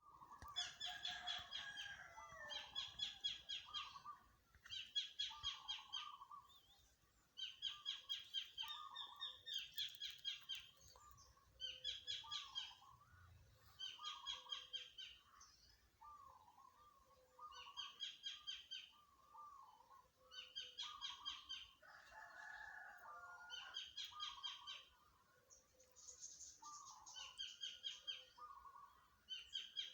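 Birdsong: a bird repeats a short, rapid, high trill-like phrase about every two seconds, with lower chirps between the phrases.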